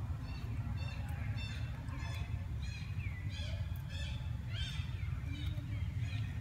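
A bird calling over and over in short arching notes, about two a second, over a steady low rumble.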